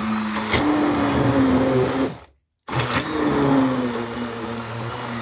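Hand-held immersion blender churning a thick slurry of soaked paper pulp and water, its motor pitch shifting as it works. It cuts out about two seconds in and starts again a moment later.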